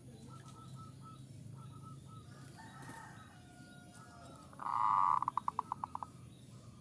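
Zebra doves cooing softly in short repeated notes, then about four and a half seconds in a much louder bird call: a held note that breaks into a fast run of about ten pulses.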